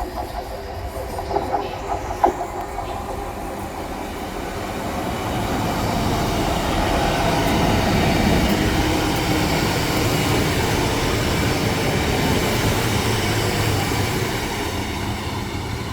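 A train running past on the line, its rumble swelling to its loudest about eight seconds in and easing off near the end, with a few short sharp sounds about two seconds in.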